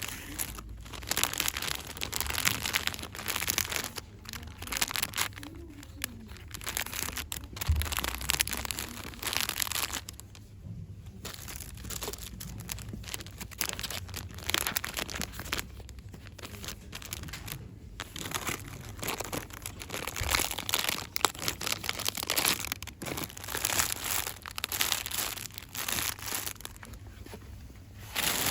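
Fast crinkling and rustling of packaging, in quick flurries with a couple of brief lulls.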